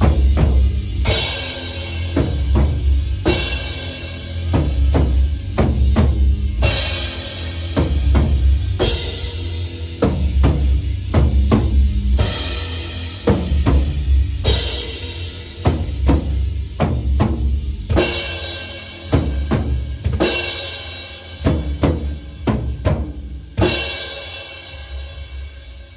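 Heavy metal drumming on a full drum kit: a driving bass drum under a crash cymbal struck roughly every two seconds, trailing off near the end.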